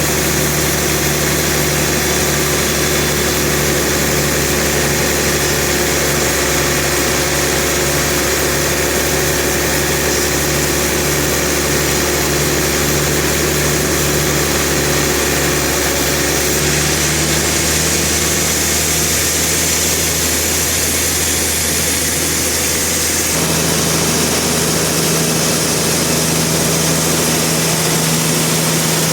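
Sawmill machinery running with a steady engine hum. Its tone shifts about two-thirds of the way through and again shortly after.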